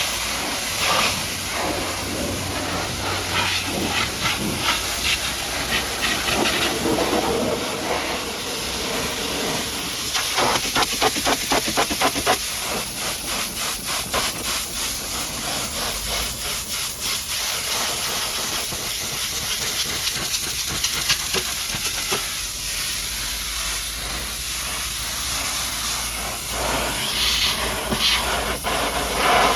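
High-pressure washer jet spraying mud off a dump truck: a loud, steady hiss of water striking the surfaces that swells and fades as the jet sweeps. Partway through, the spray breaks into a fast, even pulsing.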